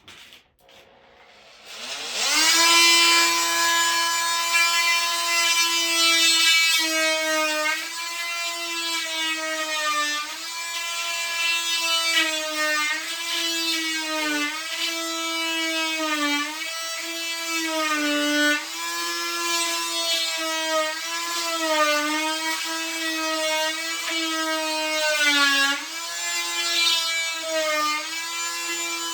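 Oscillating multi-tool starting about two seconds in and running with a steady high buzzing whine while cutting a hole, its pitch dipping briefly again and again as the blade bears into the material.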